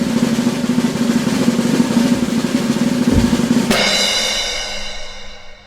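Snare drum roll, as before a reveal, ending about three and a half seconds in on a loud crash that rings on and fades out.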